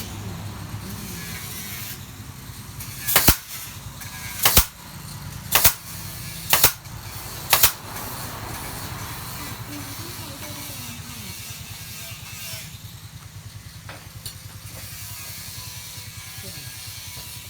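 Five sharp impacts about a second apart in a woodworking shop, over a steady low hum.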